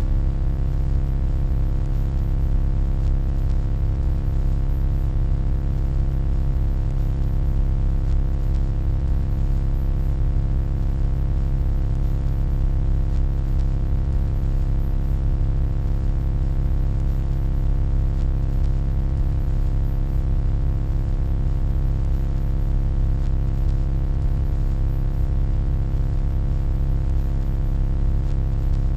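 Steady electronic hum: a deep low drone with a stack of fainter, higher overtones above it, unchanging in pitch and level.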